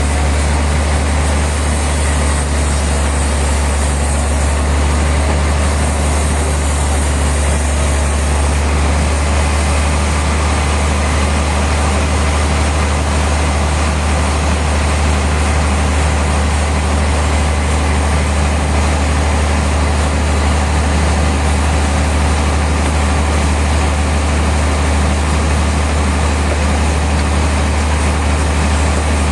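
Sawmill machinery running steadily with a loud, constant low hum and no change in pitch or load.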